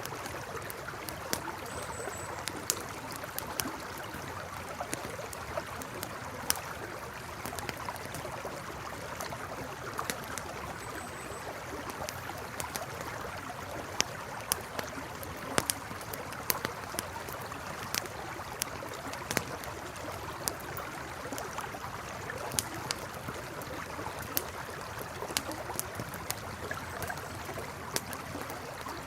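Campfire crackling with irregular sharp pops, over the steady flow of a river.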